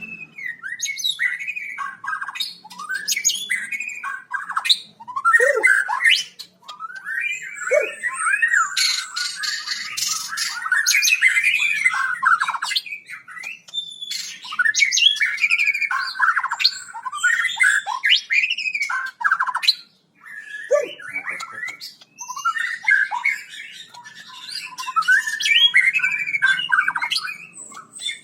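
A bird squawking and chattering in quick, varied calls, with a few short pauses and a harsher, noisier stretch about a third of the way through.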